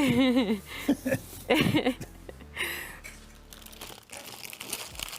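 A voice with a wavering pitch and a few short vocal sounds, followed by rustling and crinkling noise.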